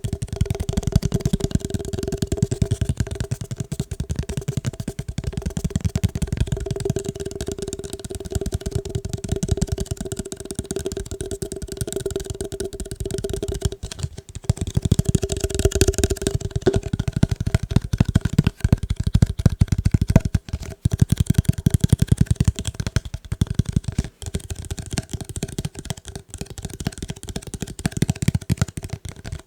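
Rapid, continuous fingertip and fingernail tapping on fast-food meal packaging.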